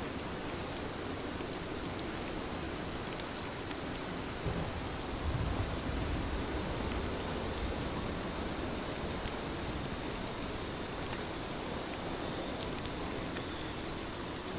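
Heavy rain falling steadily, with scattered drop ticks and a brief low rumble about five seconds in.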